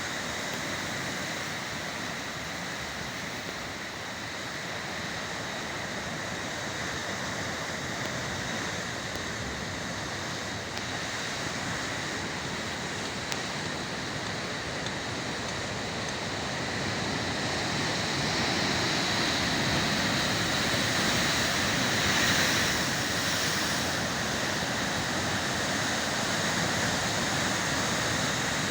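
Ocean surf: a steady wash of breaking waves, swelling louder about two-thirds of the way through.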